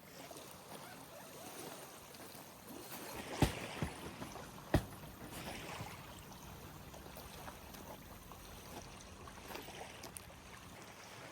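Lake water lapping gently, with three sharp knocks about three and a half to five seconds in.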